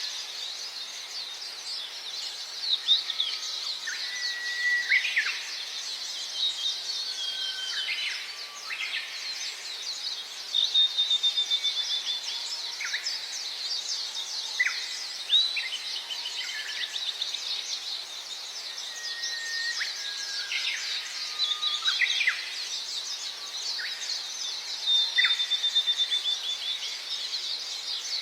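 Many birds singing at once: a dense mass of overlapping high chirps, with short whistled notes and a level trill that comes back three times, about every ten to fifteen seconds.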